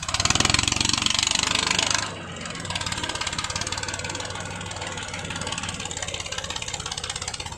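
New Holland tractor's diesel engine, loud for about two seconds and then dropping suddenly, running on steadily with a rapid, even clatter.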